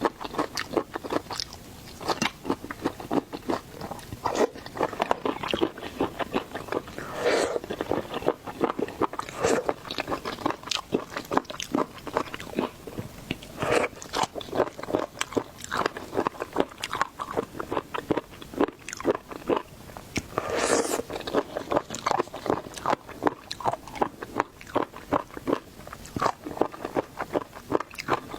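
A person eating seafood close to the microphone: continuous chewing and biting, a dense run of small clicks and crunches, with a few louder crunches about a quarter, half and three quarters of the way through.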